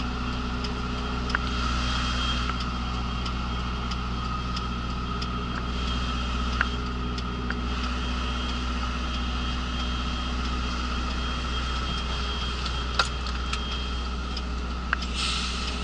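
Mercedes articulated lorry's diesel engine running steadily at low revs during a slow manoeuvre, heard inside the cab, with a few sharp clicks, one louder near the end.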